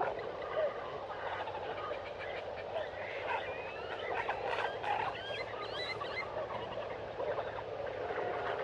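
Dense chorus of frog and bird calls, with short whistled notes sliding up and down in the middle.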